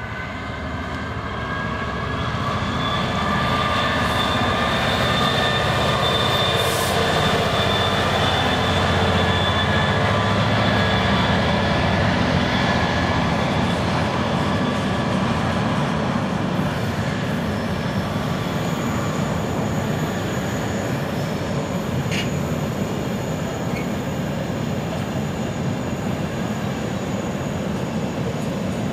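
Class 66 diesel locomotive's two-stroke V12 engine passing, its drone growing louder over the first few seconds and fading by the middle. Then a long train of container wagons rolls by with a steady rumble and wheel clatter, and a faint high squeal joins in past the middle.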